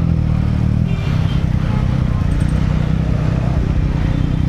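Triumph Daytona 675R's inline three-cylinder engine running steadily at low revs.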